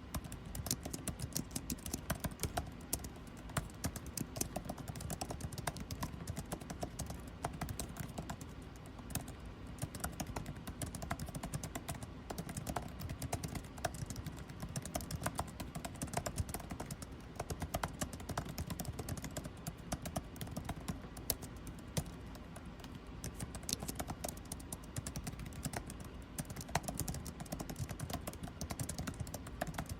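Typing on a computer keyboard: a steady flow of irregular keystroke clicks over the even low hum of air conditioning.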